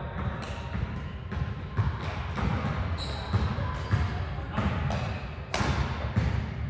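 Badminton doubles rally on an indoor court: irregular sharp racket hits on the shuttlecock and thuds of players' shoes on the floor.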